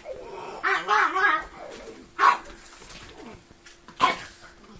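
Small dog barking excitedly: a drawn-out, wavering bark-growl about half a second in, then two short sharp barks about two and four seconds in.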